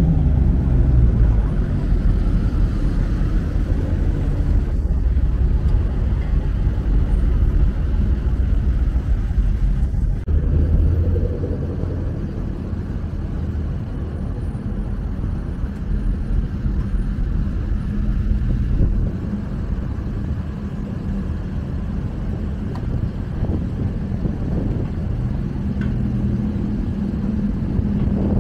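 Car engines running as cars move slowly past in a street parade: a steady low engine sound that eases off a little after about ten seconds.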